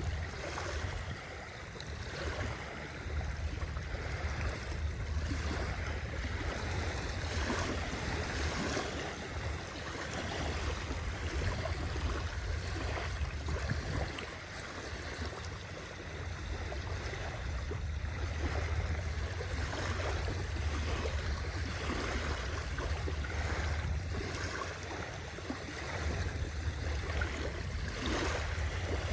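Sea waves washing in and lapping, a continuous rush of water that swells and eases every few seconds, with a steady low rumble underneath.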